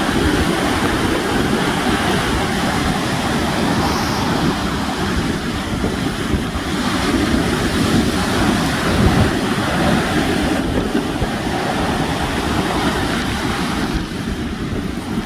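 Sea waves washing on the shore in a steady rush, with wind buffeting the microphone.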